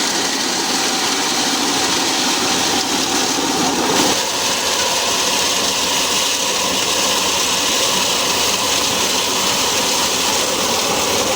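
Plastic recycling machinery running with a loud, steady noise that changes in character about four seconds in.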